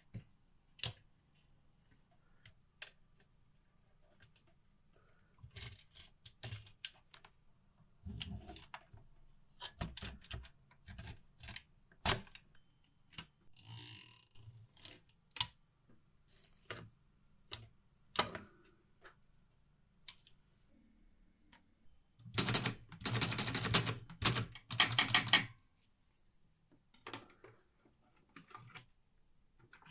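Restored 1949 Olympia manual typewriter being typed on: keys strike singly and in short groups at irregular intervals, then a rapid run of clacks lasts about three seconds and is the loudest part.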